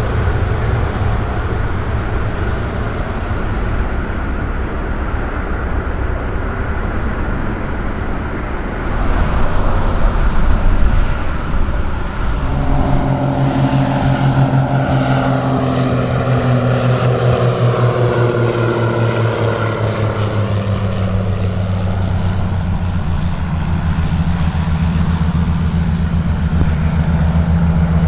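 Aircraft engines passing at close range: a rumble that swells, then a set of engine tones that slide steadily down in pitch as the aircraft goes by, settling into a steady low drone near the end.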